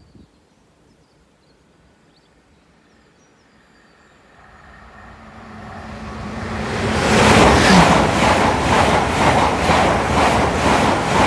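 A train approaching and passing the platform at speed: a rush of noise that swells from faint to loud over several seconds, then a rhythmic clatter of wheels over the rails, two or three beats a second.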